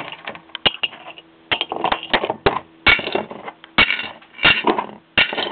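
Small metal engine parts and screws clinking and clattering as they are handled and dropped into a container: an irregular run of sharp clicks and knocks.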